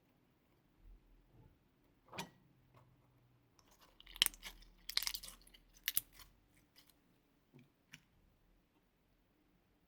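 Slime being squeezed and worked by hand, giving scattered crackles and squishy pops that bunch together in the middle.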